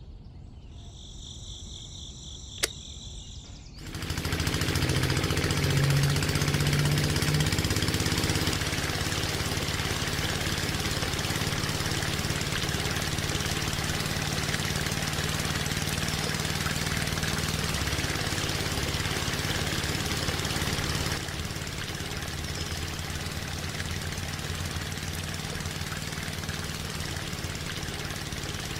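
A small engine starts suddenly about four seconds in and then runs steadily with an even low hum and hiss, dropping a little in level later on.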